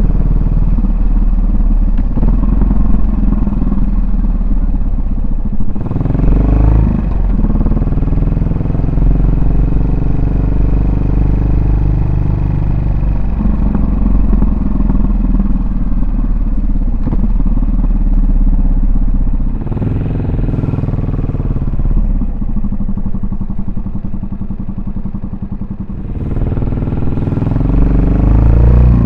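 Yamaha SR400's air-cooled single-cylinder four-stroke engine and exhaust, riding along: revs climb quickly about six seconds in, again around twenty seconds, and near the end, and ease off in between.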